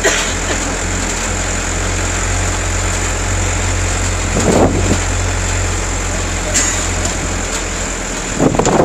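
Tour tram's engine running steadily with a continuous low hum.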